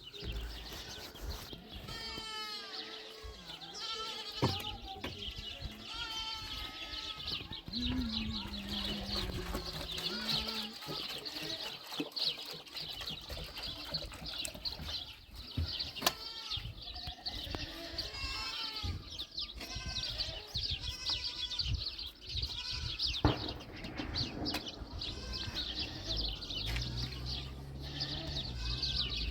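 Goats bleating over and over, with many overlapping calls.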